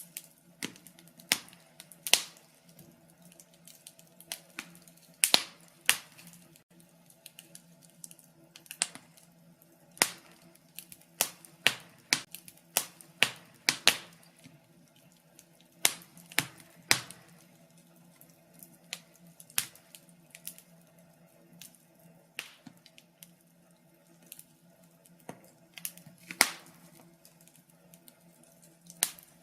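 Wood fire in a fireplace crackling, with sharp irregular pops and snaps, several a second, some much louder than others.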